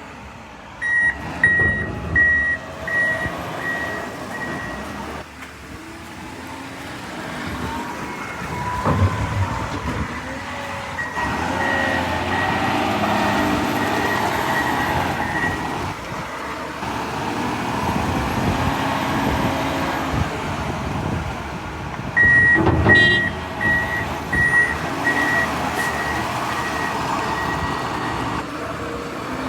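John Deere 544L wheel loader's diesel engine working under load, with a backup alarm beeping about twice a second while reversing: at the start and again from about 22 seconds in. Two loud knocks, near 9 and 23 seconds, stand out over the engine.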